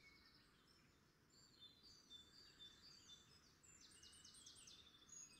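Faint birdsong: scattered short high chirps and whistles, with a quick run of repeated notes about four seconds in.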